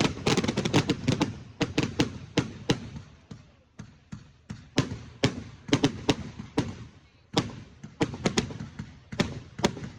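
Fireworks display: many sharp bangs going off in quick, irregular succession, each with a short echo, thickest in the first second or so.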